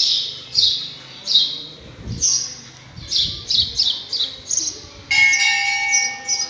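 A bird chirping over and over, short high falling chirps about two a second. About five seconds in, a bell starts ringing and keeps sounding.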